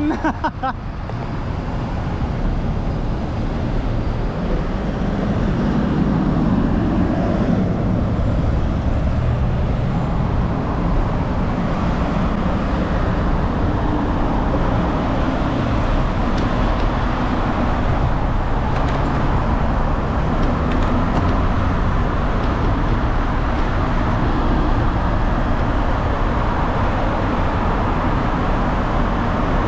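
Steady road traffic noise, with a dense low rumble under it.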